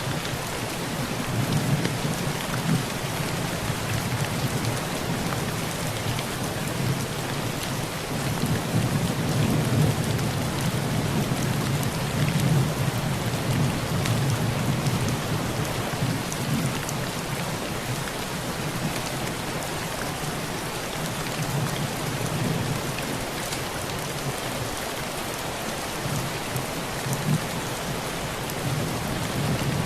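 Heavy rain drumming steadily on a tin roof, with scattered sharper drop ticks and a low rumble of rolling thunder that swells through the first half and again near the end.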